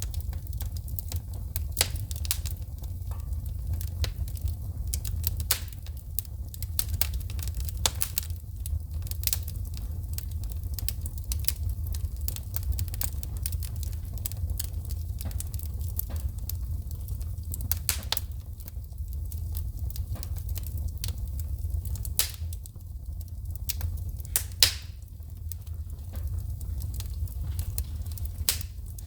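Wood fire in a fireplace crackling, with frequent sharp pops of shooting sparks over a steady low rumble of the flames; one pop near the end stands out as the loudest.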